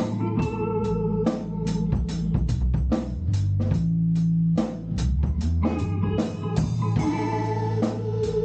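Live band jamming instrumentally: an organ holds sustained chords over a steady drum-kit beat, with bass underneath.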